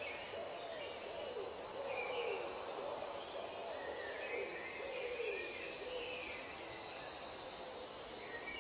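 Bird calls in a tropical nature recording: a run of low hooting notes that rise and fall, about one a second and thinning out after the first few seconds, with higher chirps and twitters over a steady background hiss.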